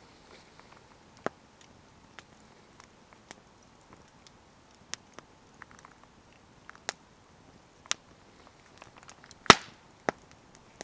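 Wood fire crackling: sharp, irregular pops over a quiet background, the loudest about nine and a half seconds in.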